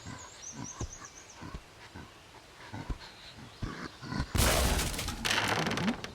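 Animal-like vocal noises from a cartoon Bigfoot, ending in a loud, rough, noisy burst of about a second and a half past the middle, over faint high bird chirps and small knocks.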